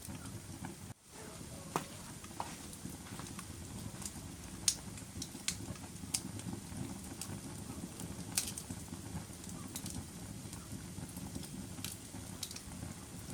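Wood fire burning in a fireplace: a steady low rumble of flames with scattered sharp crackles and pops. The sound briefly drops out about a second in.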